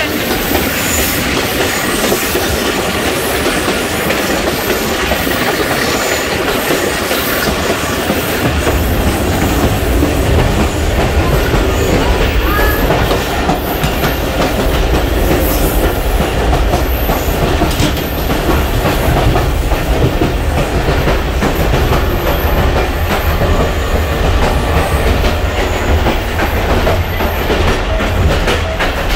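Passenger train running along the track, heard from on board: a steady rumble and rattle of the carriages with wheels clicking over rail joints. The low rumble grows heavier about eight seconds in.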